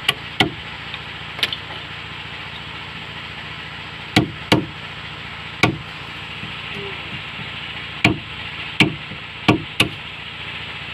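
Hammer blows on wooden boat planking: about ten sharp strikes, often in pairs, with pauses of a second or more between them, over steady background noise.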